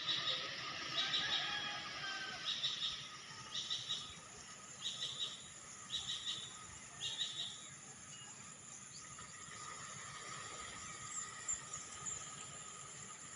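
A bird calling in short clusters of rapid chirps, about one a second, stopping after about seven seconds. Steady thin high-pitched tones run underneath.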